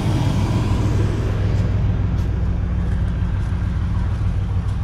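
GM OBS pickup's Vortec V6 engine idling steadily with a low hum, running on its first start after a fuel-system overhaul with a new fuel pump and spider injection unit.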